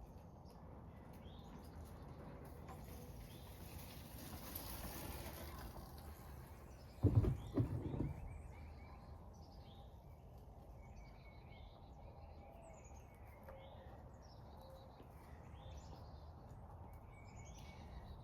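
Bike landing off a jump ramp with two or three heavy thumps about seven seconds in, after a rushing noise builds as it approaches. Birds chirp throughout.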